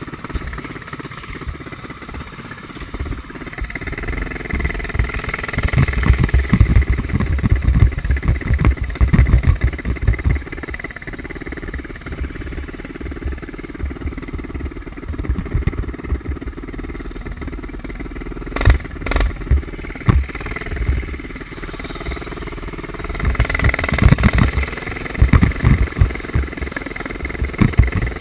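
Mini bike engine running off-road, revving harder twice, about four seconds in and again near the end, with irregular low wind buffeting on the helmet-mounted microphone.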